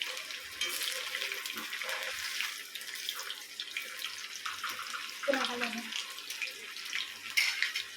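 Cornflour-coated chicken pieces deep-frying in a small kadai of hot oil, a steady sizzle with fine crackling.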